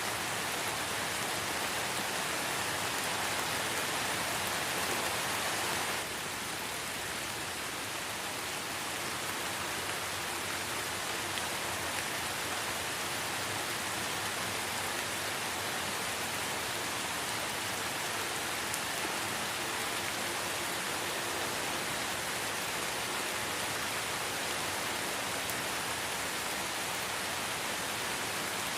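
Light rain falling in a forest, a steady even hiss of drops. About six seconds in, it abruptly becomes a little quieter and duller, then carries on steadily.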